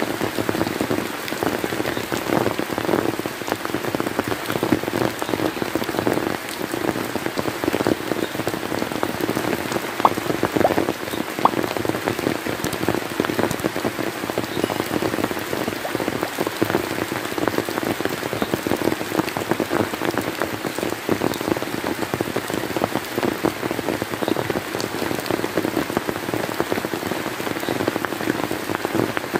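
Steady rain falling on a surface: a dense, even run of drop hits, with a few sharper single drops about ten and eleven seconds in.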